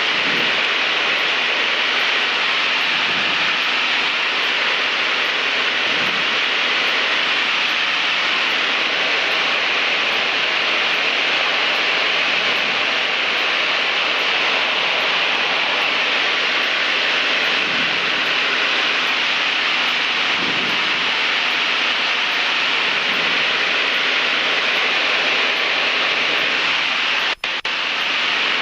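Steady in-flight cabin noise of a Cessna 152, heard as an even hiss without a distinct engine beat, briefly dropping out near the end.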